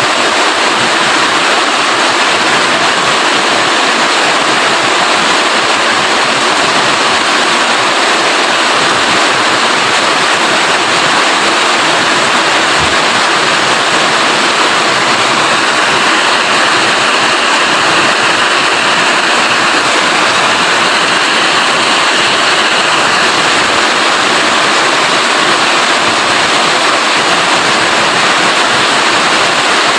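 Steady rain falling: a dense, even hiss with no break.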